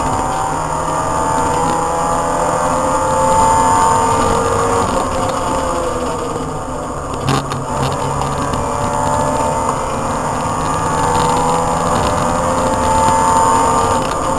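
Opel Astra GSi's 2.0-litre 16-valve four-cylinder engine under hard driving, heard from inside the car, its pitch rising and falling repeatedly as it accelerates and comes off the throttle, with road and tyre noise beneath. A single sharp knock about seven seconds in.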